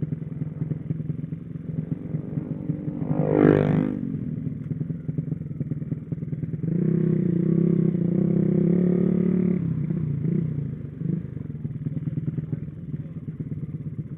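Small motorcycle engines running, with one revved briefly up and down about three and a half seconds in. An engine is then held at higher revs for a couple of seconds from about seven seconds in.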